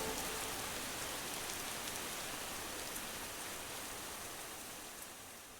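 Rain ambience, a steady hiss with a few scattered drop ticks, fading slowly out at the end of a music track; the last held synth notes die away in the first half-second.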